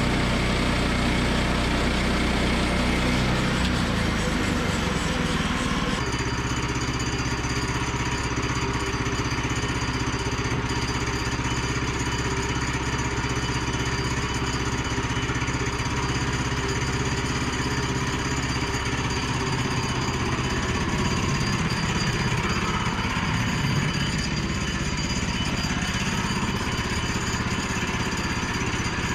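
Woodland Mills portable bandsaw sawmill's gas engine running steadily; about six seconds in the sound changes and a higher steady whine joins it.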